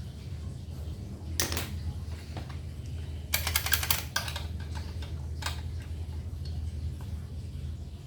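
Small metal parts or tools being handled: a sharp click, then a quick rattling run of clicks about three seconds in, and a few single clicks after it, over a steady low hum.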